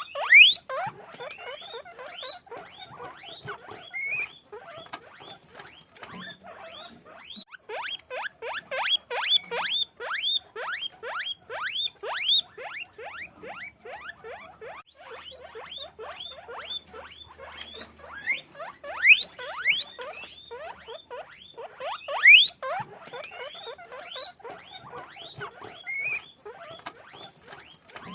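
Guinea pigs squeaking over and over: short rising squeaks, several a second and overlapping, a few much louder than the rest.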